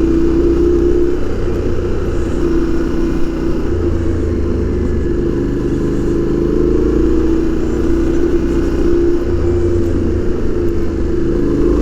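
Yamaha Ténéré 700's parallel-twin engine, with its stock exhaust, running steadily while riding. The pitch stays nearly level, with small rises and dips in throttle.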